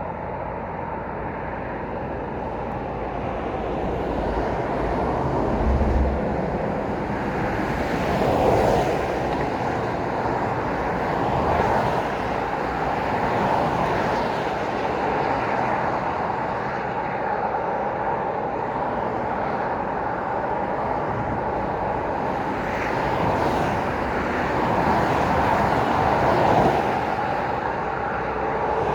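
Road traffic passing: a continuous rush of tyres and engines, with vehicles swelling louder as they pass one after another, several times.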